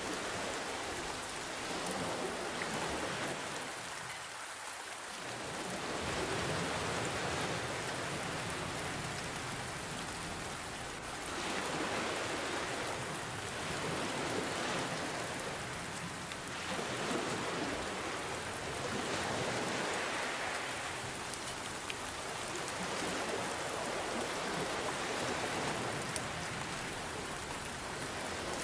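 Steady rain falling together with gentle ocean waves, the wash swelling and easing every few seconds.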